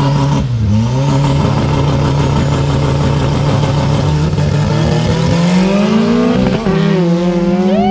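Drag-race car engines held at high revs on the start line, then climbing as the cars launch. Near the end the revs drop briefly and climb again, like a gear change.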